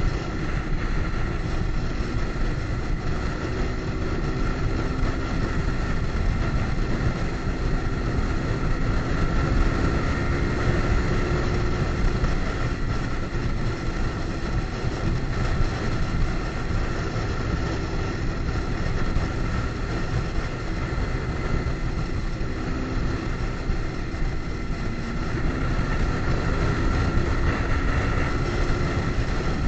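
Kawasaki Ninja sport bike engine running at steady riding revs, its pitch drifting gently up and down, under heavy wind rumble on the microphone.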